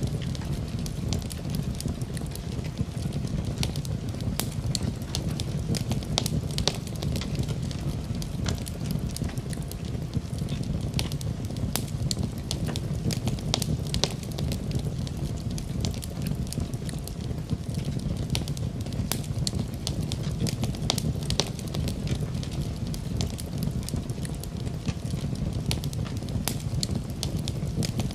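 Fireplace fire crackling: frequent sharp pops and snaps over a steady low rumble of the flames.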